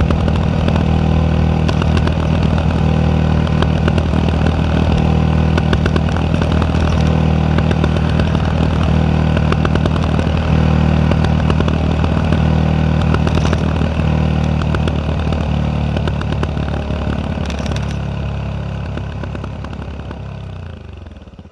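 Yamaha WR 125X's single-cylinder four-stroke engine idling through an Arrow exhaust, with irregular pops and crackles from misfires in the exhaust. Near the end the engine slows and dies away.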